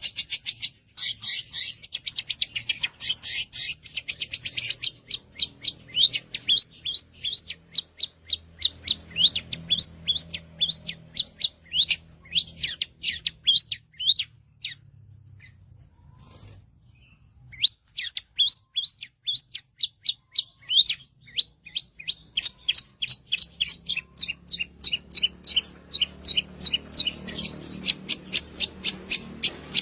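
Long-tailed shrike (cendet) singing a run of sharp, high, rapidly repeated notes: a fast dense rattle at first, then a steady string of piercing notes at about three to four a second, with a pause of a few seconds near the middle before it resumes.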